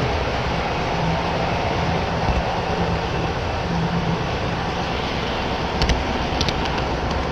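HO scale model train running on the layout track: a steady rumble of wheels with a low motor hum, and a few sharp clicks about six seconds in.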